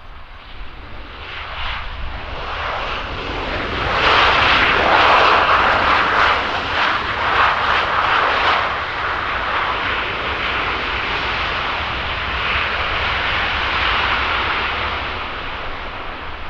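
Aircraft engine noise of a plane passing: it builds up, is loudest from about four to eight seconds in, then slowly fades away.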